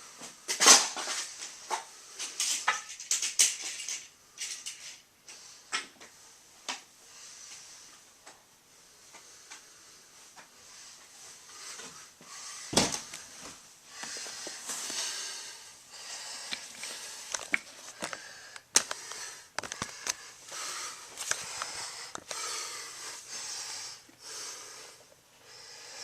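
Irregular clicks and knocks, the loudest about a second in, with stretches of hissing noise, busier in the second half.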